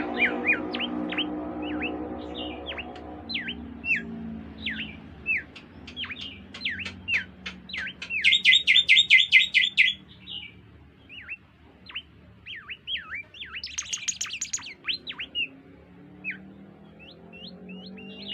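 Songbird of the kind Indonesian keepers call bimoli singing a varied song: a string of quick, sharp down-slurred whistles, broken twice by a fast buzzy trill, about eight seconds in and again near fourteen seconds. A faint low hum sits underneath for the first few seconds.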